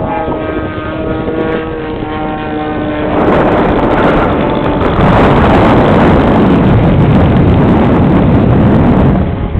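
Engine and propeller of a radio-control aerobatic airplane in flight, a steady pitched drone for about the first three seconds. After that, loud wind buffeting the microphone takes over and mostly buries it.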